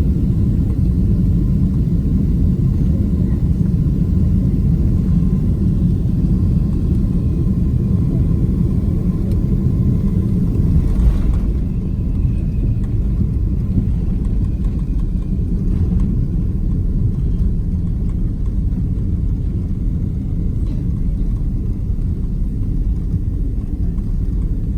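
Steady low rumble inside the passenger cabin of a Boeing 767-300, with one brief bump about 11 seconds in, after which the rumble eases slightly.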